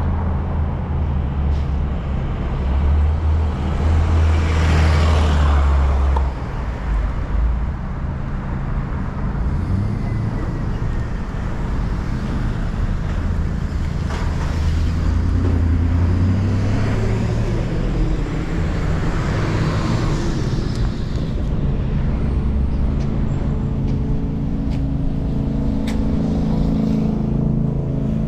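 Street traffic: engines running with a steady low hum, and vehicles passing close by twice, about five seconds in and again around twenty seconds in.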